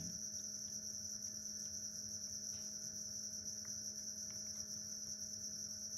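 Crickets chirping in a steady, continuous high trill, with a faint low hum beneath.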